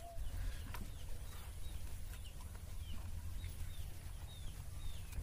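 A bird chirping over and over in short falling chirps, about two or three a second, over a low steady rumble.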